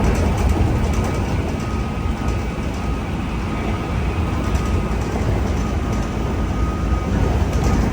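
Running sound inside a 103 series (3500 subseries) electric train's motor car, KuMoHa 103-3509, at steady speed: a constant rumble of wheels on rail with a faint steady whine. A few clicks from rail joints come near the start and again near the end.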